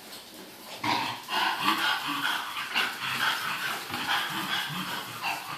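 English bulldog puppies making small grunts and whines, with busy scrabbling starting about a second in as they struggle for footing on a slippery floor.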